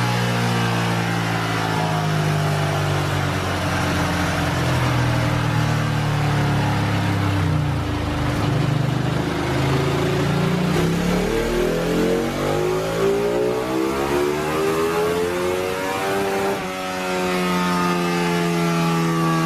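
Superbike engine revving. Its pitch sinks, then climbs steadily, drops suddenly about two thirds of the way through as at a gear change, and then holds steady.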